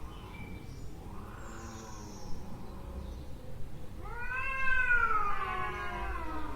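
Cat yowling: a faint short call early, then about four seconds in a loud, drawn-out scream that rises and then slowly falls in pitch.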